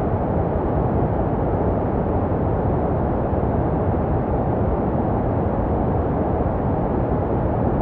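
Steady, low, even rushing noise with no tones or rhythm: a white-noise track made for soothing babies, meant to resemble the sounds heard in the womb.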